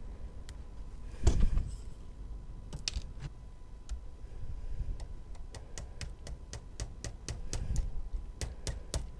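Light taps of a small hammer fitting metal rail joiners onto O gauge model railway track. There is one heavier knock about a second in, then a run of quick, light ticks, about three or four a second, in the second half.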